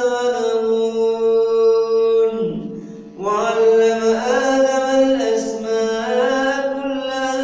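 A man's voice reciting the Quran in melodic tajweed style, holding long drawn-out notes. The voice breaks off briefly about two and a half seconds in, then resumes.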